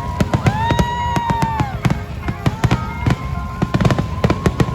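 Fireworks going off: dense, rapid crackling and popping bangs, with long drawn-out whistling tones, one arching up and falling away about half a second in and another held steady in the second half.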